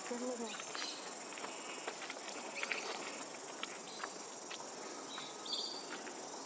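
Steady high drone of outdoor insects, with a few short bird chirps and a brief high call about five seconds in.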